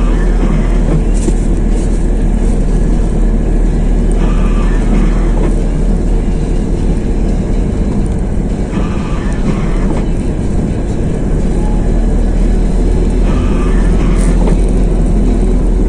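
Steady low rumble of a road vehicle in motion, heard while riding in it.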